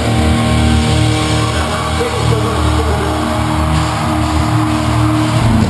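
Live metalcore band music with distorted electric guitars and bass holding long, steady chords over a heavy low end as the song ends. The held chord cuts off near the end.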